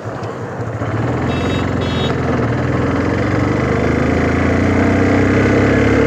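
Motorcycle engine running and building up speed, getting louder over the first couple of seconds and then holding steady. Two short high beeps sound about a second and a half in.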